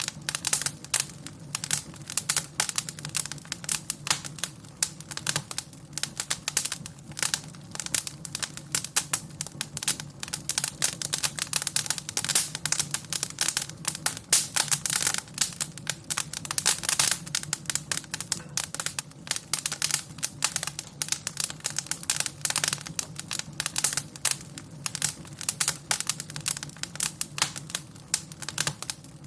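Wood fire crackling in a fireplace: dense, irregular snaps and pops over a faint steady low hum.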